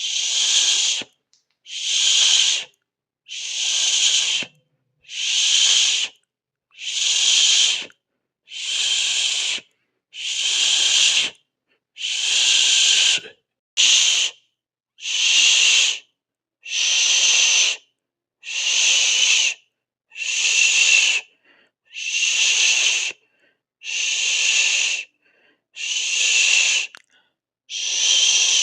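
A person's voiceless mouth hiss, a long shushing 'sss', made over and over. Each hiss lasts about a second and is followed by a brief silent gap, repeating roughly every second and a half to two seconds.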